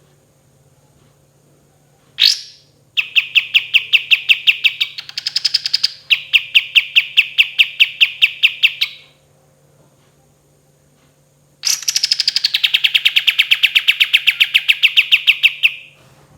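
Kapas tembak songbird singing: a single sharp note, then a long rapid rolling trill of about six notes a second, quickening briefly in the middle, and after a pause of a couple of seconds a second long trill.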